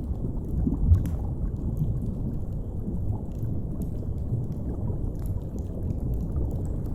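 Deep-sea underwater ambience: a steady low rumble, with small scattered crackles of a fire over it and one louder crack about a second in.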